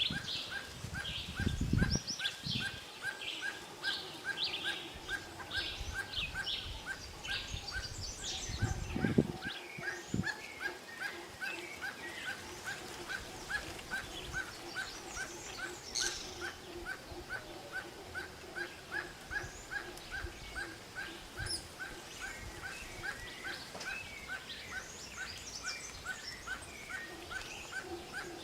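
A barbet calling a long, steady series of short, clear repeated notes, about two to three a second, with other birds chirping higher over it. There are a couple of low bumps near the start and about nine seconds in.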